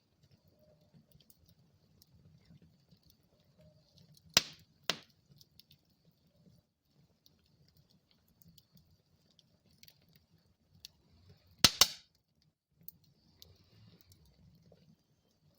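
Wood fire burning in a fireplace: a faint low crackle under sharp, loud pops of the burning wood. Two pops come about half a second apart around four seconds in, and a louder cluster of pops comes about twelve seconds in.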